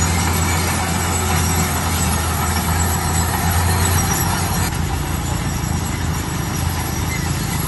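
Bulldozer's diesel engine running steadily with a low hum under a broad mechanical din; the hum eases and the sound thins about four to five seconds in.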